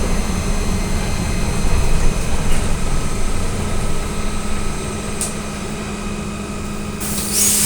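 Steady hum of an AKSM-321 trolleybus's electrical and auxiliary equipment heard inside the cabin, with a low drone and faint steady whines above it. A sudden burst of air-like hiss comes near the end.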